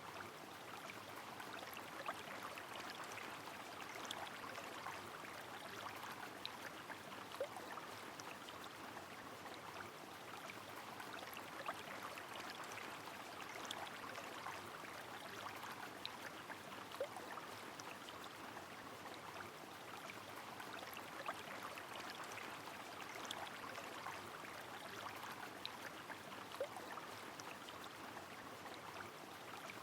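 A river flowing with rain falling: a steady rushing hiss, dotted with scattered sharp ticks of drops.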